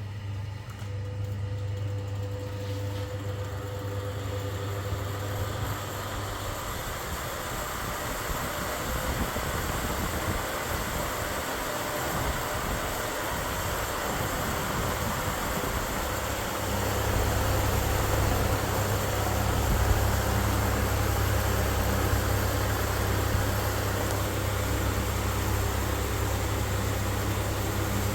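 Electric fan running: a steady rush of air with a low motor hum. The hum fades out for several seconds and comes back stronger about halfway through, as the rush of air grows louder.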